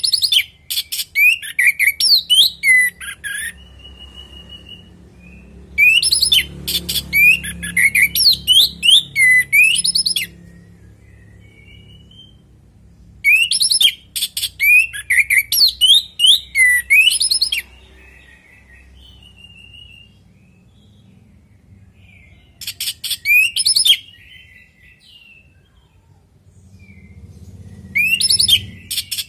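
Orange-headed thrush (anis merah) singing: five bursts of rapid, varied whistled phrases, each a few seconds long, separated by pauses, over a faint low rumble.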